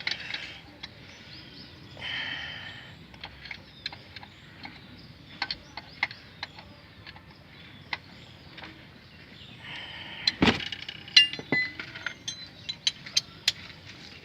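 Metal hand tools clinking and clicking against the engine's flywheel bolts as they are tightened. There are scattered sharp clicks, a short rasping stretch about two seconds in, and a denser run of clinks near the end.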